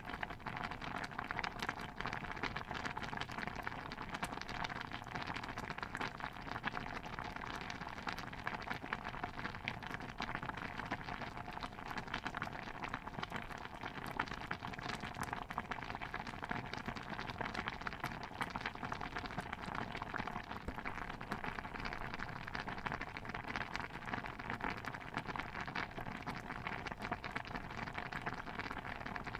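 Steady water ambience: a dense, even patter of many small pops and drops with no change or pause.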